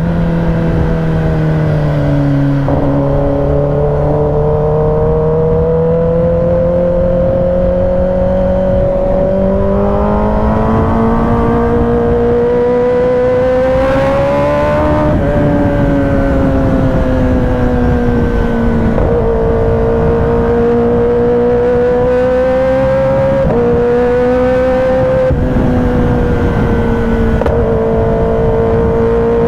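Kawasaki ZX-10R's inline-four engine running while riding, its note slowly rising and falling, with sudden jumps in pitch several times as it changes gear.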